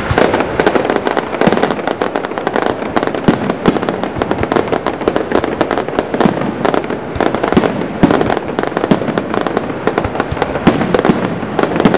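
Fireworks display: a rapid, unbroken barrage of bangs and crackling from bursting shells, with louder reports scattered among them.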